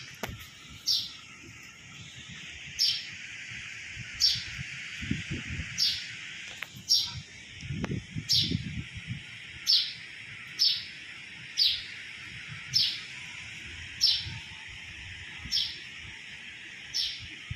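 A bird calling over and over, a short high chirp about once a second, over a steady hiss.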